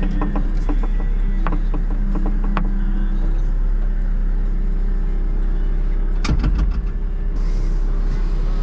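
CAT 906 wheel loader's diesel engine running steadily, with scattered sharp knocks and clicks over its hum and a louder clatter of knocks about six seconds in.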